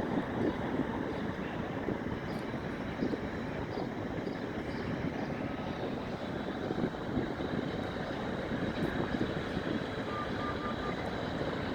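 Steady, even hum of city traffic, with three faint short beeps near the end.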